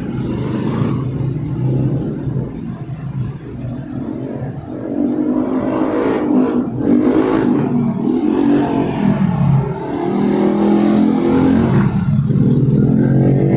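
Motor vehicle engines running close by, with the pitch rising and falling as one revs up from about five seconds in.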